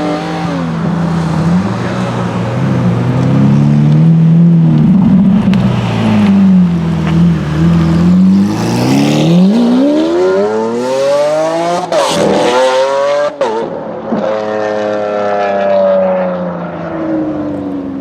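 Lamborghini Aventador V12 engine revving, its pitch rising and falling several times. It then climbs hard to a high peak, with two brief sharp breaks near the top, before winding back down.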